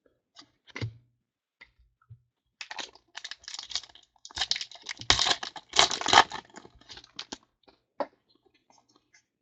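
Foil wrapper of a trading-card pack crinkling and tearing open, with light clicks and taps of cards being handled. The crinkling comes in about two and a half seconds in and is loudest past the middle.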